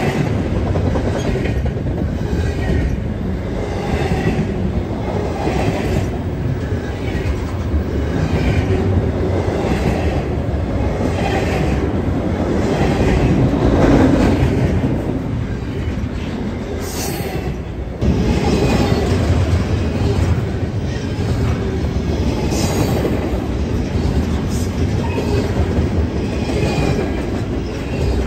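Train rolling past on the rails: a continuous rumble of wheels on track with a regular clatter of wheels over rail joints, broken abruptly about two-thirds of the way through.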